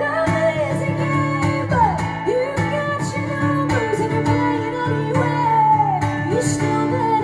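Live song: a woman singing long, sliding notes over a steadily strummed guitar.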